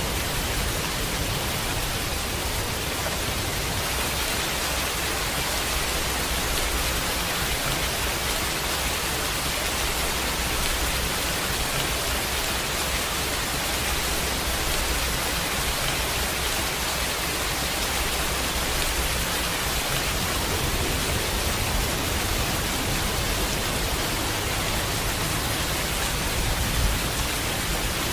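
Steady heavy rain, an even hiss, with a low rumble underneath.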